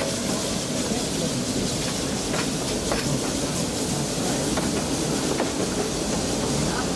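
A train rolling along the track: a steady rumble with a few sharp clicks scattered through it.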